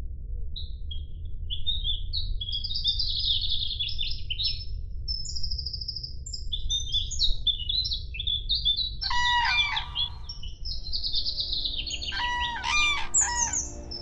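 Songbird singing a long, fast run of varied high chirps and trills, joined by two louder, harsher calls about nine and twelve seconds in, over a steady low rumble.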